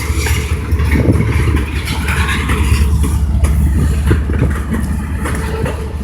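Iowa Interstate freight train rolling past at close range: a steady low rumble with scattered clanks and knocks from the wheels and cars.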